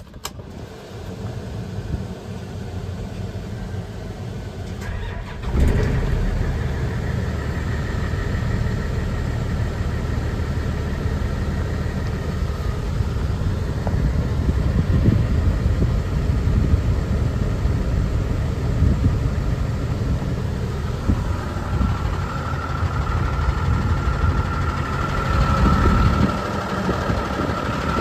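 Hino J08E 7.6-litre inline-six diesel engine starting: a rising sound for about five seconds, then the engine catches with a sudden jump in loudness and runs steadily. In the last several seconds a steady high whine sits over the running engine.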